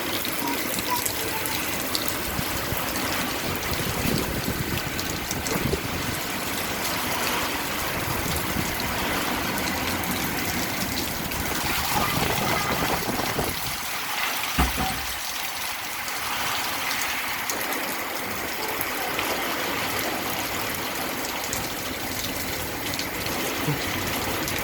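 Heavy rain with water rushing and gushing, a steady hiss. A single low thump about midway.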